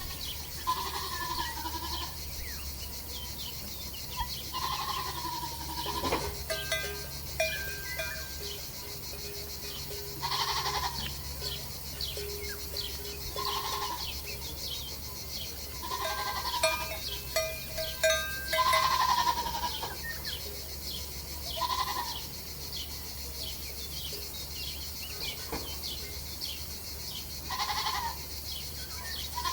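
Goats bleating, about eight short calls spread out, over faint high chirping.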